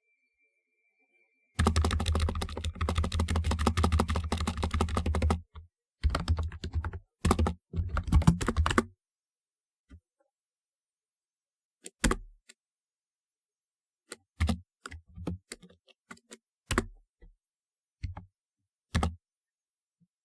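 Typewriter-style keyboard being typed on. A fast, dense run of keystrokes starts about a second and a half in and lasts about four seconds. A few shorter bursts follow, then scattered single keystrokes, each stroke with a deep thud as well as a click.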